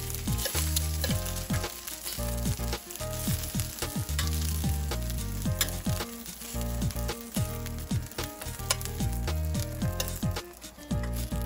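Battered shrimp sizzling and frying in hot oil in a stainless-steel skillet, with sharp clicks of metal tongs against the pan as pieces are lifted out. Background music with a low, repeating bass beat plays underneath.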